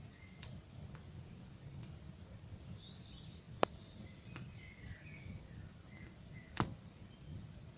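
Campfire burning, with a few sharp crackling pops (the loudest about three and a half and six and a half seconds in) over a low steady rumble, while small birds chirp in the background.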